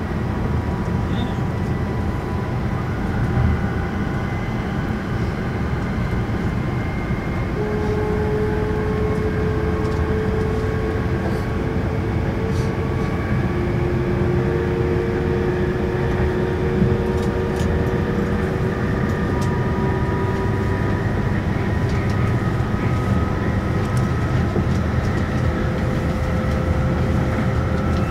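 E5 series Shinkansen running at speed, heard from inside the passenger cabin: a steady, dense low rumble, with a few faint whining tones drifting slowly upward in pitch.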